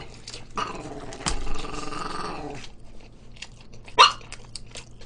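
Crunchy fried chicken being bitten and chewed, with a sharp crunch about a second in and a louder one near the end. A drawn-out low voice-like sound runs over the first couple of seconds.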